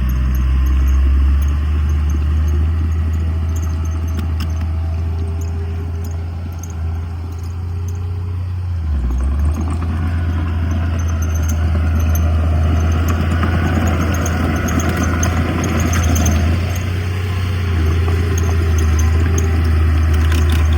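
Heavy diesel earthmoving machinery running with a steady deep engine hum and light clattering. The hum dips briefly about nine seconds in, then the engine runs louder and rougher.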